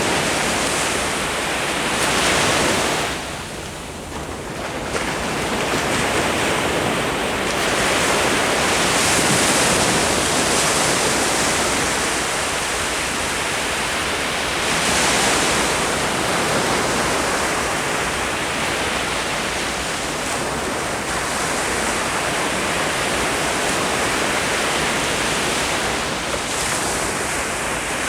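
Ocean waves breaking and washing up on the shore, a continuous surf wash that swells and eases as each wave comes in, with a brief lull about four seconds in.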